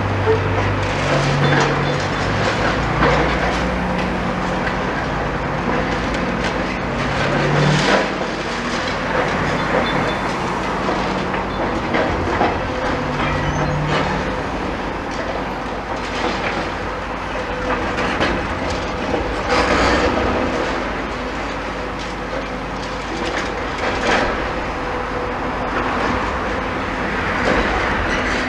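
Demolition excavator working a building down: its diesel engine runs with shifting pitch while masonry and metal creak, crunch and clatter. Several sharp crashes of debris stand out, loudest about 8, 19 and 24 seconds in.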